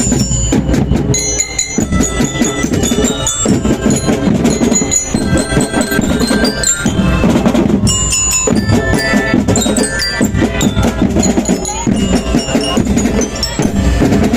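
Marching band playing, with mallet bells carrying a bright melody over snare and bass drums.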